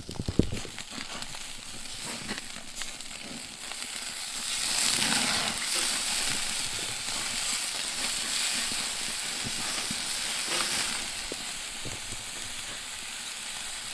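Food sizzling on a grill over an open wood fire, a steady hiss with scattered crackles, swelling louder about five seconds in.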